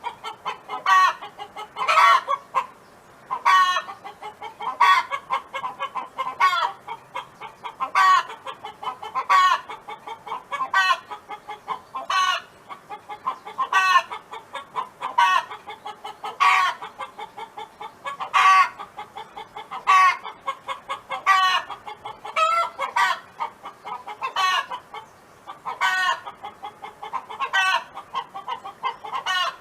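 Domestic hen clucking over and over, short pitched calls coming roughly once a second or a little slower.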